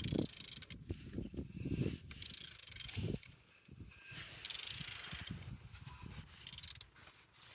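Used engine's crankshaft being turned over by hand, with irregular mechanical clicking and scraping from the pulley and wrench. The engine turns freely.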